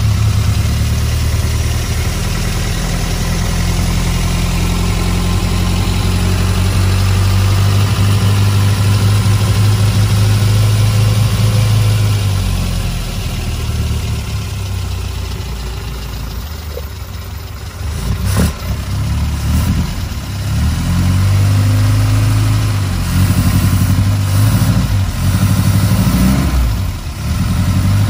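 1960 Austin-Healey Sprite's BMC A-series four-cylinder engine with twin SU carburettors, warming up after a cold start. It idles steadily for the first half, then is revved several times in the second half, the note rising and falling, with a sharp click about two-thirds of the way through.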